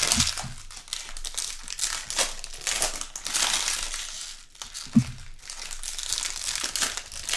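Trading-card pack wrappers crinkling and tearing as packs are opened and handled, with a single soft knock about five seconds in.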